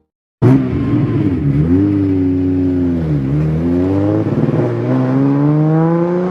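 Car engine accelerating, starting abruptly after a brief silence; its pitch dips twice, about one and a half and three seconds in, then climbs steadily.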